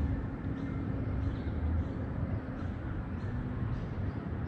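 Steady low rumble of distant road traffic, with faint bird chirps repeating above it.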